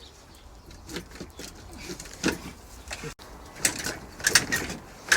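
Irregular knocks and clanks of metal parts and tools being handled during engine work, a few scattered at first and busier near the end.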